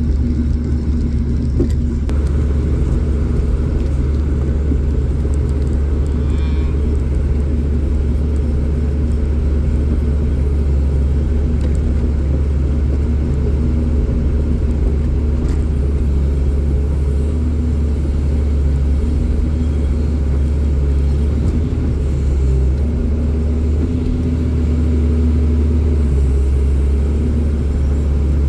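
A vehicle engine running steadily, a continuous low rumble with a faint steady hum above it.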